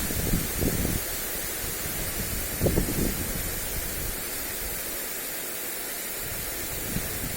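Lawn sprinkler spraying water onto grass, a steady hiss, with gusts of wind buffeting the microphone in the first second and again near three seconds in.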